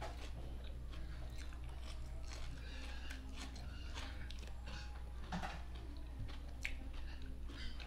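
Close-up eating sounds of a man biting and chewing okra and rice: wet, smacking chews with small irregular clicks, over a steady low hum.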